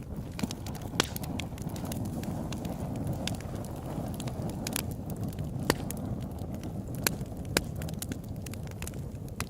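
Fire crackling: scattered sharp pops at irregular intervals over a steady low rumble of the flames, the strongest pops about a second in and near the middle.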